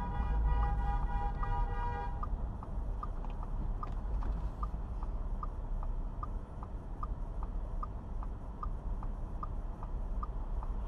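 A car horn held steadily until it cuts off about two seconds in, over a constant low rumble of engine and road noise. A turn-signal indicator ticks about twice a second.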